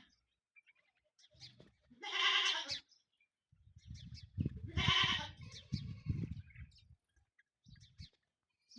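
Peacock calling: two loud, wailing calls, each under a second long and about two and a half seconds apart. A stretch of low, irregular thumps runs around the second call.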